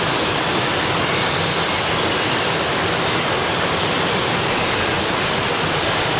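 Steady, unbroken rushing of water, like falling or running water at a waterpark.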